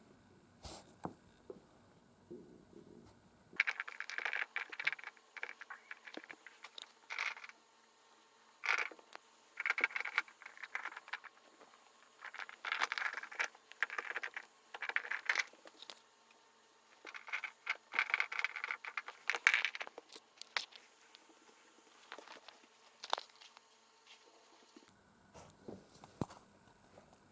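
Kitten clawing at a surface sprinkled with silvervine: short, irregular scraping bursts, thickest through the middle and thinning out near the end.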